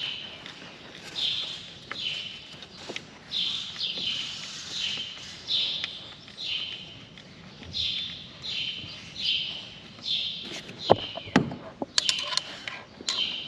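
A bird chirping over and over, a short high chirp about once or twice a second. Near the end there are a few sharp clicks and knocks with a low thump.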